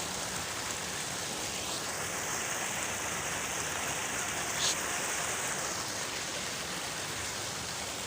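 Falling water rushing steadily, with one brief click about four and a half seconds in.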